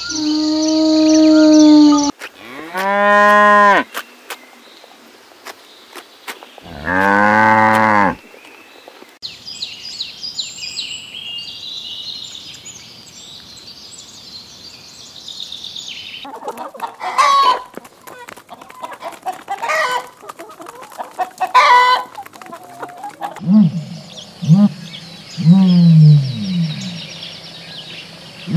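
A string of different animal calls one after another. First come a few drawn-out calls whose pitch rises and falls. Then comes a stretch of high chirping and clicking, and near the end a run of short, lower calls.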